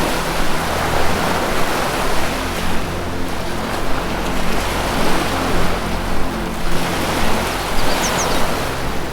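Ocean surf washing in and out in repeated swells, over low, sustained musical notes. A bird gives a brief high chirp near the end.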